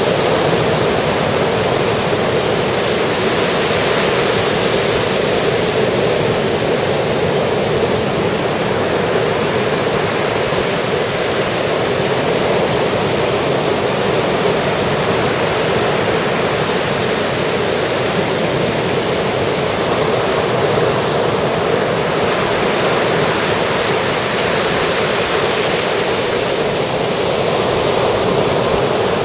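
Ocean surf breaking and washing onto the beach: a continuous, steady wash that swells slightly a few times.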